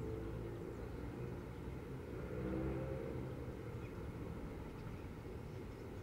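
Low rumble of a motor vehicle's engine, growing louder about halfway through and then easing back.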